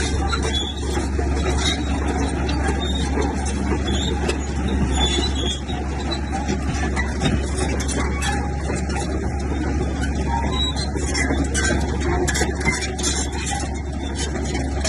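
Diesel engine of a Komatsu bulldozer running steadily under work, a low hum with frequent small clanks and clicks over it.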